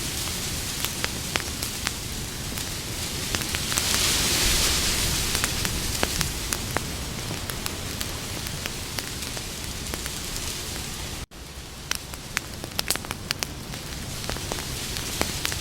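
Wood campfire burning with a steady hiss and frequent sharp crackles and pops; the hiss swells a few seconds in, and the sound cuts out for an instant about eleven seconds in.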